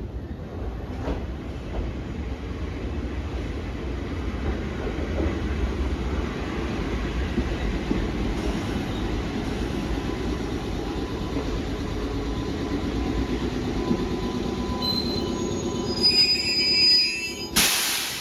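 Passenger train running on the rails with a steady rumble. Near the end the wheels squeal briefly in several high tones, followed by a short, loud burst of noise.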